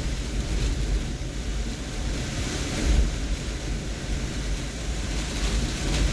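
Hurricane wind blowing in gusts, buffeting the microphone with a heavy low rumble over a steady rushing noise.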